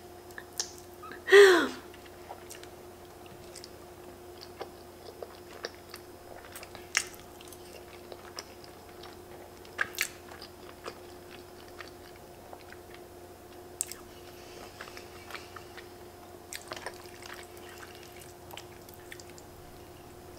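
Close-up mouth sounds of a person eating creamy fettuccine: chewing with wet clicks and smacks, and the odd tap of a fork. About a second and a half in there is one short, loud hum of the voice that falls in pitch. A faint steady hum lies underneath.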